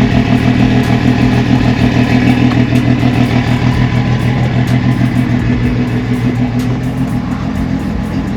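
Yamaha F250 V6 four-stroke outboard running steadily on a fresh oil and filter change, being run to check the filter and drain plug for leaks.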